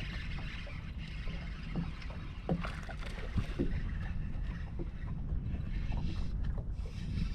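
Wind buffeting the microphone on an open fishing boat, a steady fluttering rumble with a hiss above it, with scattered small knocks and clicks from the boat.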